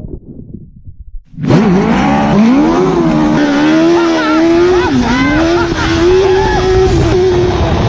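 Suzuki GSX-R1000 inline-four engine in a dirt bike, running hard. After a quieter rumbling start it comes in suddenly about a second and a half in, rises in pitch, dips and climbs again, then holds high and fairly steady.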